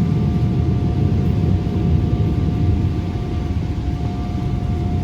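Boeing 777 cabin noise by the wing on the ground before takeoff: a steady low rumble with a constant high-pitched whine.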